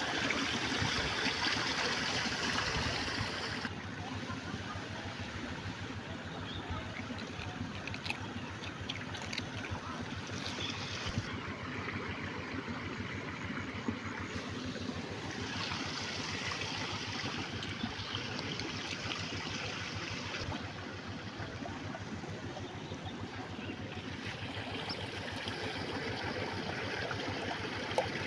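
Running water trickling and splashing steadily. The rush is louder for the first few seconds and again in two stretches later on, with a few faint knocks.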